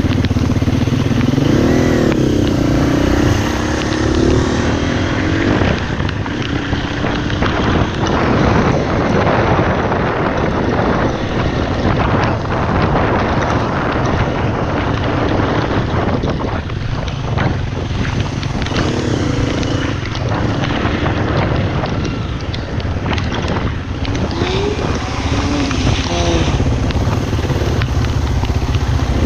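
Dirt bike engine running under way, its pitch rising and falling with the throttle, and a dense rushing noise through most of the middle stretch.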